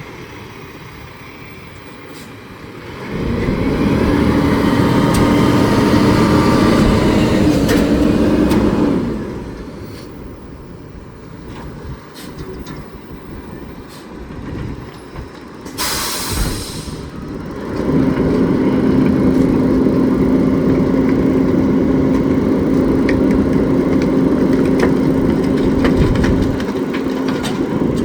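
McNeilus rear-loader garbage truck running two packing cycles: each time the engine speeds up to drive the hydraulic packer, giving a loud steady drone for about six to eight seconds, then drops back to idle. A short hiss of air is heard between the two cycles.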